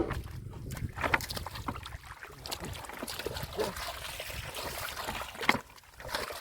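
Shallow muddy water sloshing and splashing irregularly as hands grope through it for fish. There are a few sharper splashes, the loudest about a second in and again near the end.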